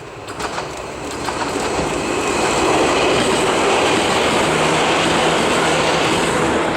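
A Chichibu Railway electric train approaching and passing close by: the running noise grows louder over the first two seconds, with a few clicks of wheels over rail joints, then holds as a loud steady rush. A steady low hum comes in about two-thirds of the way through.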